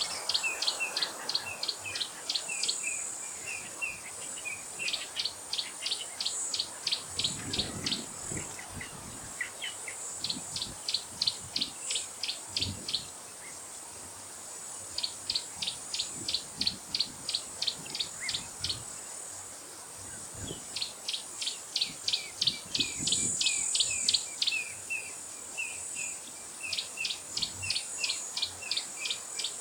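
A bird calling in repeated bouts of rapid, evenly spaced notes, about five a second for two or three seconds, every five seconds or so, with softer chirps in between. Under it runs a steady high buzz of insects.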